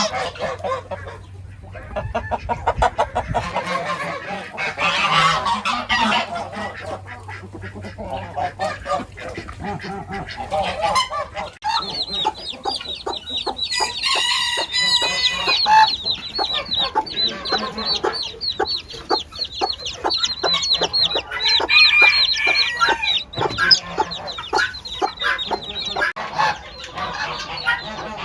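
A mixed poultry flock calling together: chickens clucking in a dense overlapping chorus, with other fowl calls among them. About twelve seconds in, a high, rapidly repeated call joins in and carries on through most of the rest.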